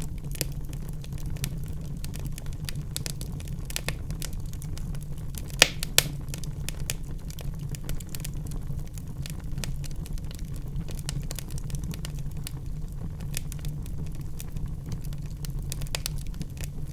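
Wood fire crackling in a fireplace: frequent small pops and snaps over a steady low rumble, with two sharper, louder pops close together about five and a half seconds in.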